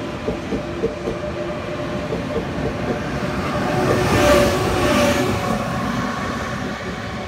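Push-pull E1000-series Tze-Chiang express train pulling out past the platform, its wheels clicking over rail joints. About four seconds in, the electric power car at its end passes close by, the loudest moment, and the train's running noise then slowly fades.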